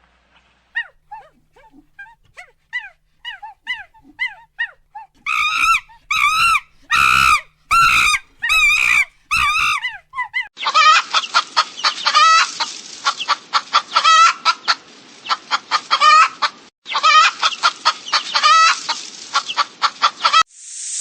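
Chickens calling: a few short chirping calls, then a series of loud repeated calls about five seconds in, then a flock clucking continuously, many birds at once, from about ten seconds in.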